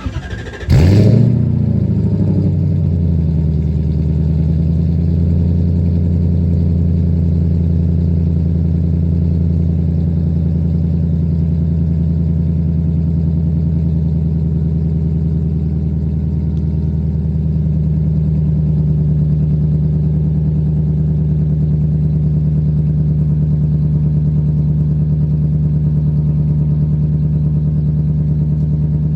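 1993 Lexus LS400's 4.0-litre V8 starting up through a modified exhaust with gutted catalytic converters, a Y-pipe and a generic box muffler. It catches under a second in, flares briefly, then settles into a steady idle.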